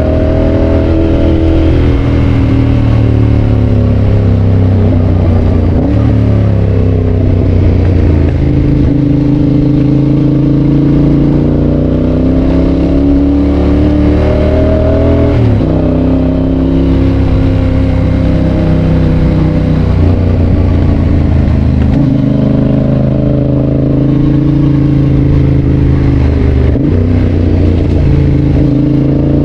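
Yamaha Tracer 7's parallel-twin engine running through a GPR aftermarket exhaust while riding: the engine note climbs and falls with throttle and gear changes, dropping sharply about halfway through and again near the end.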